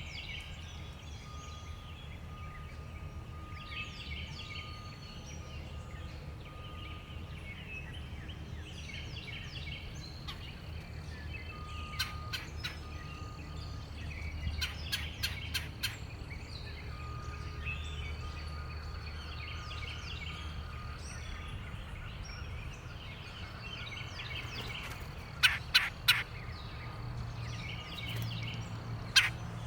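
Backyard birds chirping and calling over a low steady rumble. Sharp taps break in, the loudest sounds here: one near the middle, a quick run of four, a run of three near the end, then one more.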